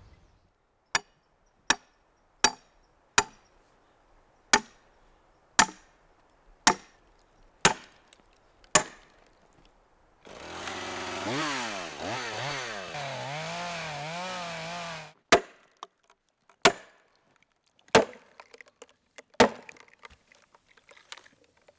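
Sharp blows on an Osage orange log, about one a second, then a chainsaw running for about five seconds, its pitch rising and falling as it revs, then a few more blows.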